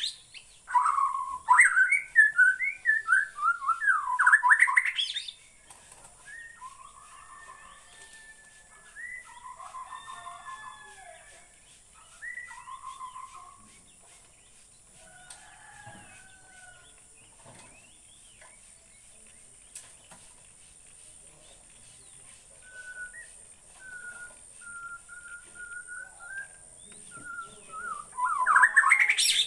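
Shama (murai batu) singing: loud, rapid, varied phrases in the first five seconds and again near the end, with quieter, sparser phrases in between. A steady high-pitched whine runs underneath.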